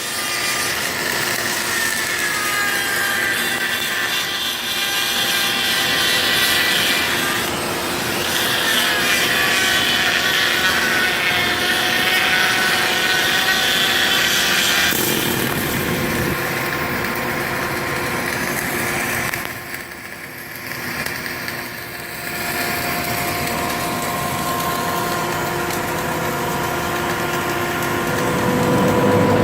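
A power tool's motor whining over steady mechanical noise, its pitch sagging and recovering as the load changes, with a short lull about two-thirds of the way through.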